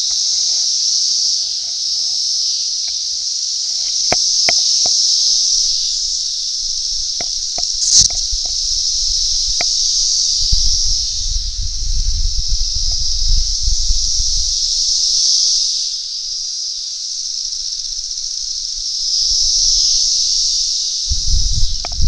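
Dense chorus of periodical cicadas from a mass emergence: a loud, steady high-pitched drone that swells and fades every few seconds, with scattered clicks and spells of low rumble.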